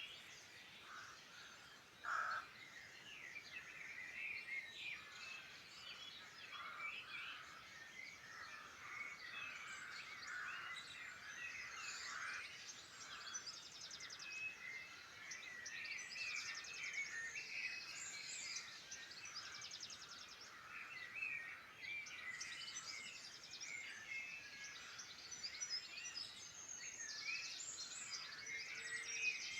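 Many wild birds singing and calling at once: a dense, overlapping mix of chirps and trills, with one short louder call about two seconds in.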